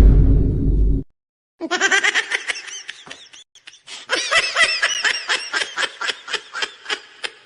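A loud, harsh noise burst cuts off about a second in. After a short gap comes a laughter sound effect: rapid, high-pitched pulses of laughing, several a second, that fade toward the end.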